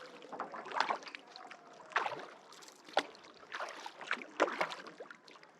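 Kayak paddle blades dipping into lake water and splashing, with drips, about one stroke a second.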